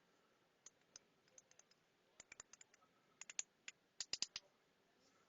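Faint, irregular small clicks and ticks, bunched in the second half, from hands working cable connectors and wiring inside a vending machine.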